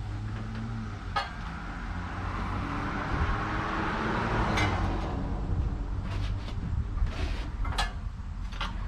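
A steady low hum, with a swell of hiss in the middle and several sharp clicks or knocks.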